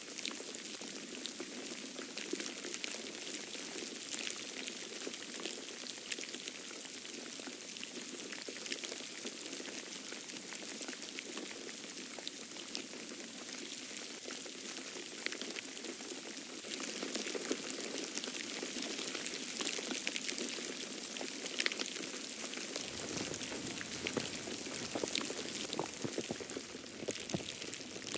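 Snow falling and pattering on surfaces: a steady hiss dense with tiny ticks.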